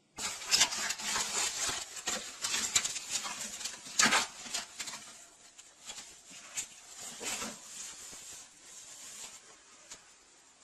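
Dense scratching and rubbing noises that start suddenly, are loudest in the first few seconds with a sharp peak about four seconds in, then fade.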